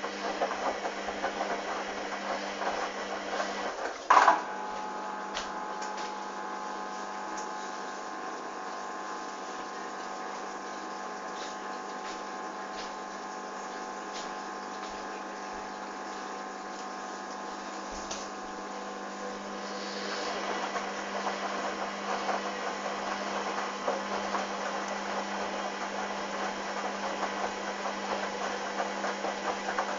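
Hoover Dynamic washing machine at its fourth spin, interrupted by sudslock (too many suds detected). A sharp click about four seconds in, then a steady hum with several tones, which turns rougher and louder about twenty seconds in.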